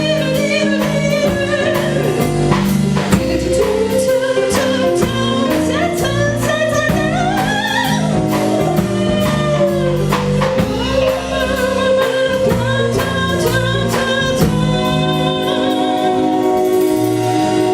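Live band music: a woman singing over drums and bass, with a sustained melodic line wavering above.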